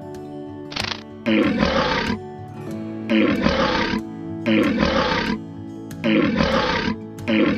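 Loud animal roars repeated at an even pace, about every second and a half, each under a second long, over background music with steady held notes.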